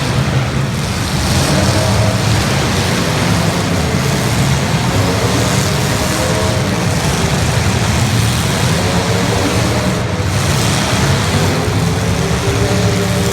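Several demolition derby cars' engines running and revving together in a loud, dense din, their pitches wavering up and down.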